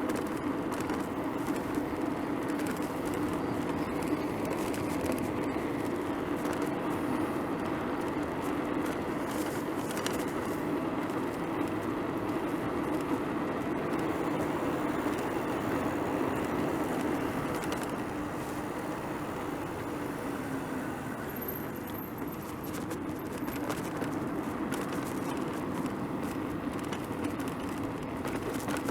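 Steady street noise heard from a moving bicycle: tyres rolling on pavement and road traffic going by, easing off a little about two-thirds of the way through.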